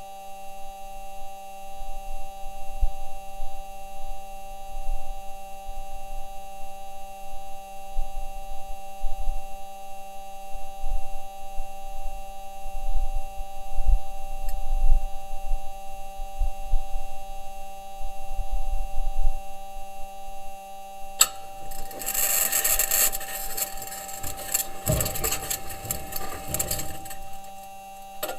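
Mars rover Perseverance's wheels and suspension on the crater floor, picked up by the rover's own microphone: a steady hum with irregular low knocks and clunks. After about twenty seconds a louder, high-pitched scraping and rattling sets in.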